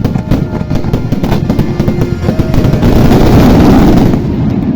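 Fireworks bursting in rapid succession over loud show music. About two and a half seconds in, the bursts merge into a dense, loudest run of a finale barrage, which eases off near the end.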